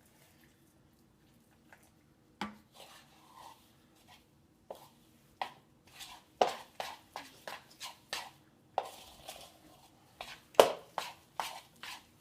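A utensil clacking and scraping against a mixing bowl while crumbly salt dough is stirred: irregular sharp knocks that start a couple of seconds in and come faster in the second half.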